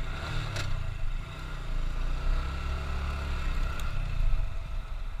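Motorcycle engine running steadily as the bike is ridden, a low even rumble with one brief click about half a second in.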